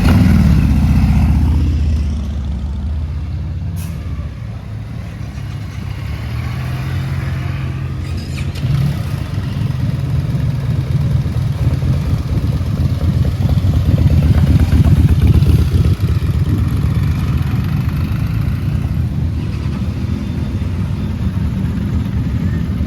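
Sport motorcycle engines running: loud right at the start, then a steady rumble that builds up again in the middle and eases off toward the end.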